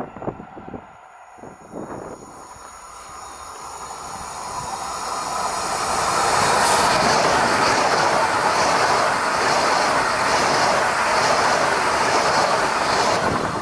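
PKP Intercity ED250 Pendolino high-speed electric multiple unit passing at speed. Wheel and air noise builds over a few seconds to a loud, steady rush, with a regular clattering pulse of about two beats a second as the train goes by.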